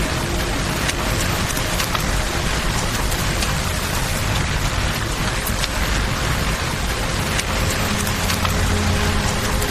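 Steady rain falling in a dense, even hiss, mixed with flowing river water and scattered sharp clicks, which may be fire crackles or raindrops.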